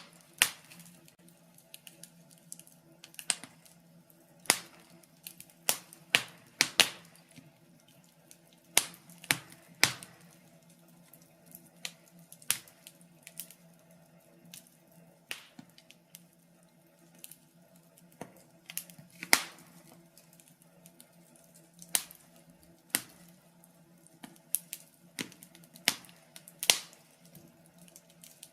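Wood fire in a fireplace crackling, with irregular sharp pops and snaps, some loud, a few close together, over a faint steady low hum.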